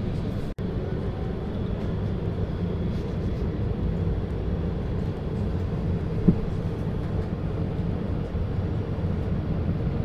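Steady low machine drone, with faint steady hum tones under it. It cuts out for an instant about half a second in, and there is one short knock a little past the middle.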